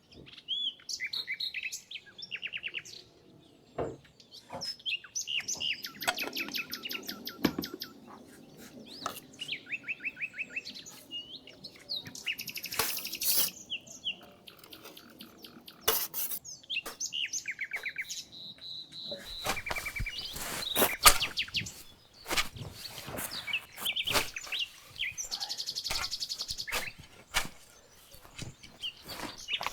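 Songbirds chirping and trilling in repeated phrases, with scattered sharp knocks and clicks that become frequent about two-thirds of the way through, where the loudest knock falls.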